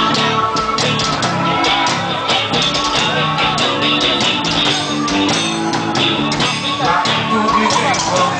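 A live band playing loud amplified music with a steady drum beat.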